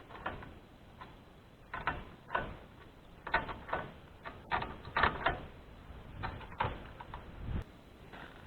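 A series of irregular sharp clicks and knocks, a dozen or so spread unevenly over several seconds.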